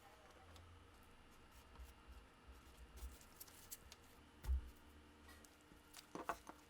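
Faint handling sounds from a workbench: scattered light clicks, a soft thump about four and a half seconds in, and a brief cluster of small clicks with a short ring near the end.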